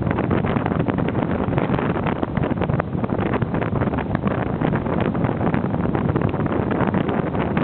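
Strong gusting wind buffeting the microphone, a loud, continuous rumble and crackle over the noise of rough surf.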